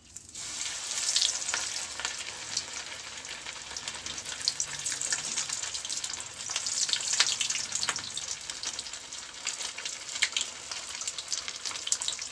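Breaded chicken cordon bleu frying in hot oil in a pan: the sizzle starts suddenly as the chicken goes into the oil, then carries on steadily with many sharp pops and crackles.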